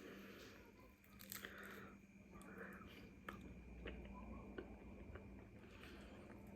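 Faint chewing of a spicy chicken wing, with a few soft mouth clicks and crunches.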